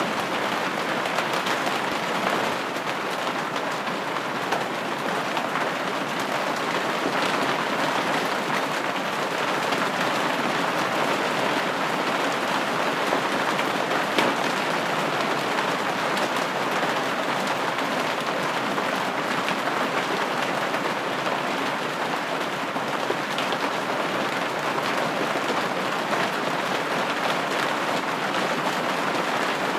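Steady rain pattering on a window pane, an even hiss with scattered drop ticks and a few slightly louder drops.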